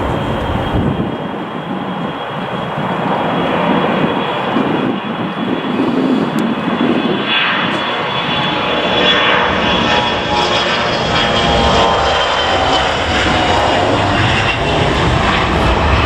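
Jet airliner's engines running close by: a loud, steady jet noise with high whining tones that slide down in pitch through the second half.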